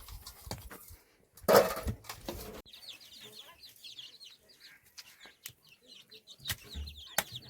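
Chickens calling: a rapid run of short, high cheeps that fall in pitch, several a second, through the middle. A louder noisy burst comes about a second and a half in, and a few sharp knocks near the end.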